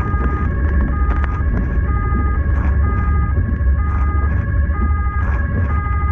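Emergency-vehicle siren in a two-tone hi-lo pattern, switching between a higher and a lower pitch about every half second, over a steady low engine and road rumble.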